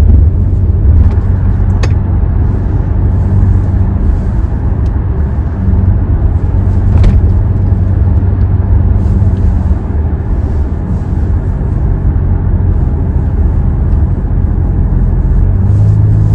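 Hyundai Tucson engine and road noise heard inside the cabin while driving: a steady low drone that deepens and grows louder near the end.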